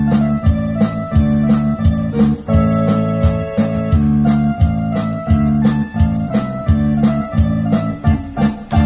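Electronic keyboard playing organ-like held chords over a low pulse that repeats about twice a second, as an instrumental song introduction.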